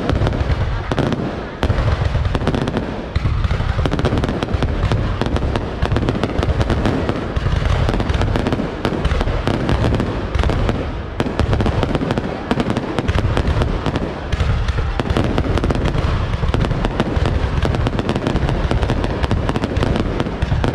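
Fireworks display: a dense, unbroken run of bangs and booms going off one over another, with people's voices underneath.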